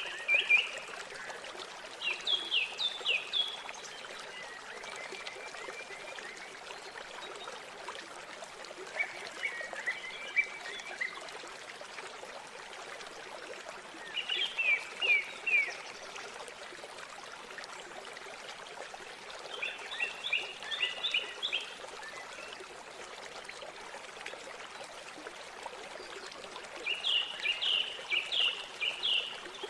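Steady rush of flowing river water, with a small songbird singing short phrases of quick high notes about every five seconds.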